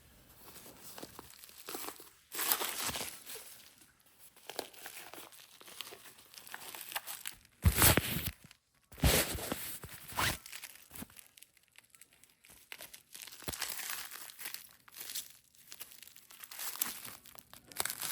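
Packaging being handled and unwrapped: irregular crinkling and tearing, loudest in a few sharp bursts about eight to ten seconds in.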